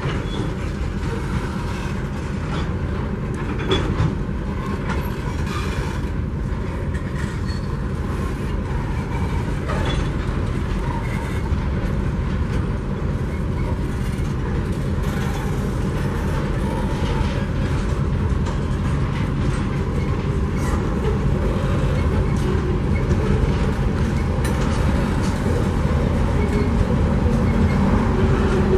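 Freight train's container wagons rolling over a concrete rail bridge: a steady rumble of wheels on rail with scattered clicks and clacks at rail joints. The rumble grows gradually louder toward the end as the train's diesel locomotives, TR16 and DQ 2008, approach.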